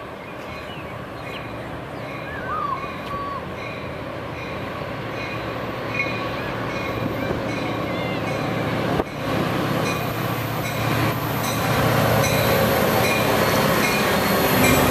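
Metra EMD F40PH diesel locomotive and its train running on the track, growing steadily louder as it comes closer.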